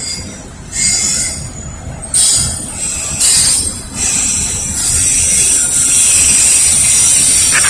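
Freight train wheels squealing as the cars roll slowly past, over a low rumble. The high squeal comes in three short bursts, then holds steady from about five seconds in.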